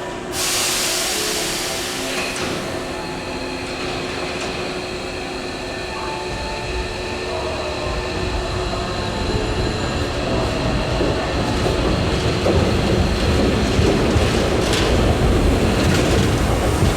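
Hankyu 8000-series electric train at the platform: a sudden sharp hiss of air about half a second in that dies away over a couple of seconds, then the train's running noise building up and growing louder toward the end.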